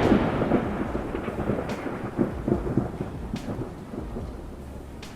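Thunder rolling in irregular low rumbles that slowly fade, over the hiss of rain.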